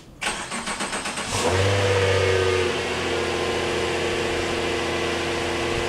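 2017 Subaru Legacy 3.6R's flat-six engine on its stock muffled exhaust being started: the starter cranks for about a second, the engine catches with a brief rise in revs, then settles into a steady idle.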